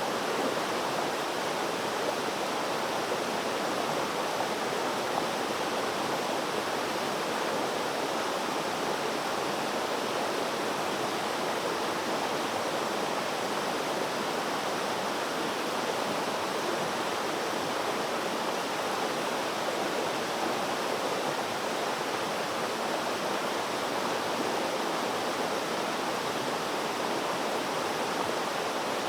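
Water flowing steadily, an even rushing sound with no breaks or changes.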